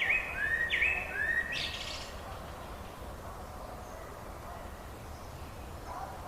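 Bird song: one bird gives three short upswept notes in quick succession, then a brief burst of higher notes, over a steady low background hiss. About two seconds in the song stops, and only the hiss remains until new calls start near the end.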